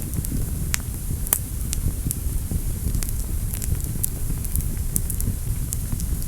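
Fire burning in a fireplace, crackling with frequent sharp pops at irregular intervals over a steady low rumble.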